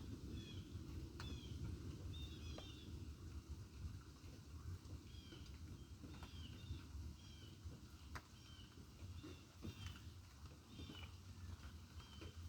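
A small bird chirping faintly, short repeated calls about once or twice a second, over a steady low rumble with a few sharp clicks.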